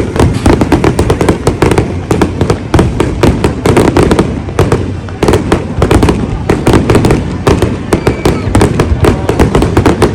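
Large fireworks display: a rapid, continuous barrage of loud bangs and crackles, many shells bursting at once with no pause.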